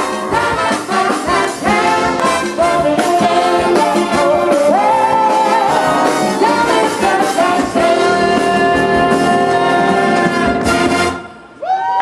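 Big band playing, its brass section out front, settling into a long held chord that cuts off sharply about eleven seconds in. A voice starts just after.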